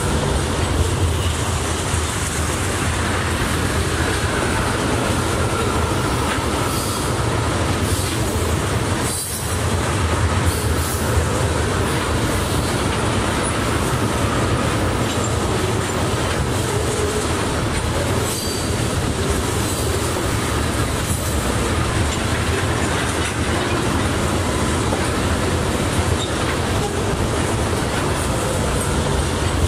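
Freight train of tank cars rolling past at speed: a steady heavy rumble with wheels clicking over rail joints and a faint wheel squeal in places.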